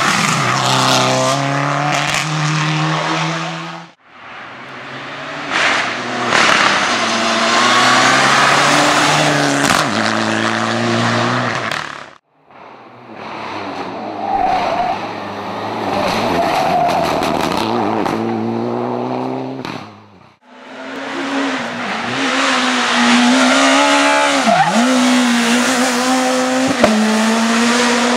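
Rally cars driven hard on a stage, engines revving high and dropping between gear changes, in four short passes cut one after another.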